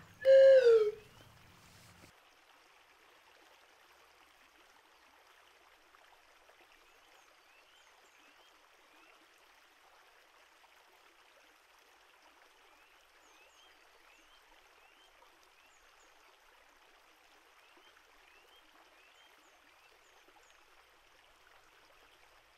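Faint, steady flowing-stream water sound with scattered small chirps above it. It opens with a loud falling pitched glide lasting under a second.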